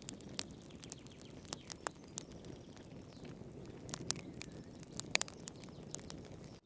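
Wood fire burning in a fireplace: irregular sharp crackles and pops over a low, steady rush of flame, with a brief dropout right at the end.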